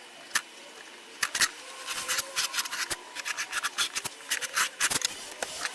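A sharp point scratching circles into the surface of a piece of plywood. It makes clusters of quick, short scratchy strokes.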